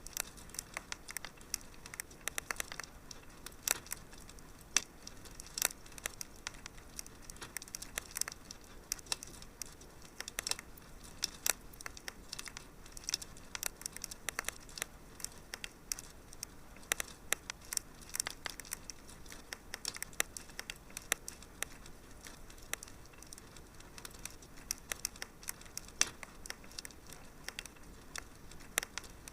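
Wood fire crackling in a fireplace: irregular sharp pops and snaps, a few at a time, over a faint steady hiss.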